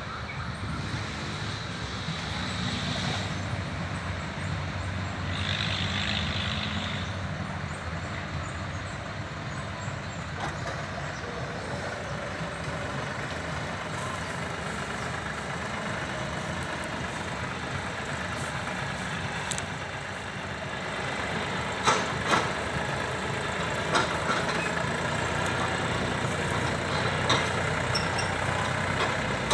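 Tractor engine running at a steady speed, with a few sharp knocks near the end.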